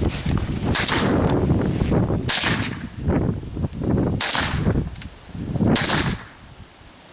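.22 LR rifle shots fired one at a time, four sharp cracks about two seconds apart, over a heavy low rumble that dies away near the end.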